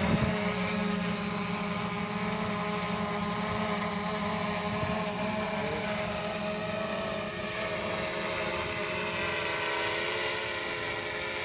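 DJI quadcopter drone's motors and propellers running with a steady buzzing whine whose pitch does not change.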